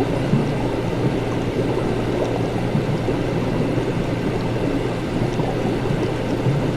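Laboratory ambience: liquid bubbling and gurgling steadily over a low, constant hum, with a few faint small ticks.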